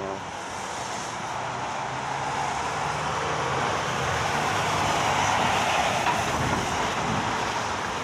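Road traffic on a wet street in the rain: a steady tyre-and-spray hiss over a low engine hum, swelling louder over several seconds as a heavy vehicle draws near.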